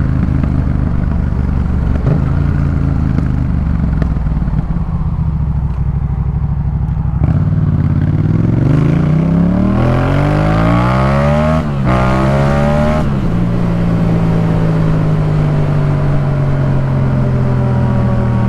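Yamaha MT-07's parallel-twin engine through a Jeskap K4 full exhaust. It runs steadily, then accelerates hard about halfway through with a rising note and one quick upshift. Near the end the throttle closes and it settles into a steady, slowly falling drone.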